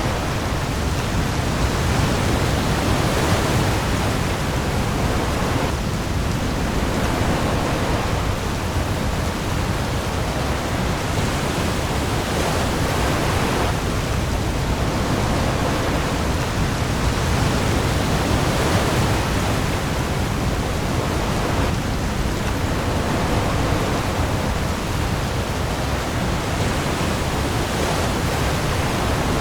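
Heavy rain falling on the open sea with waves: a dense, steady hiss that swells gently every few seconds over a deep low rumble.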